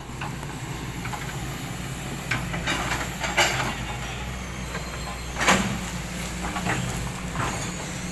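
Heavy machine's engine running steadily, with a few sharp cracks and knocks; the loudest comes about five and a half seconds in.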